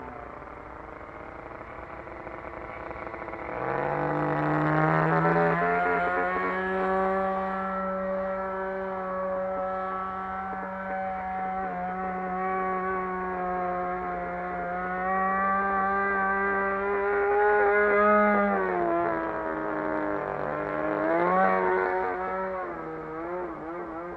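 RCGF 20cc single-cylinder two-stroke gasoline engine of a model airplane running, rising in pitch and volume as the throttle opens about four seconds in, holding a steady high note, then easing back near the end with a brief blip of throttle.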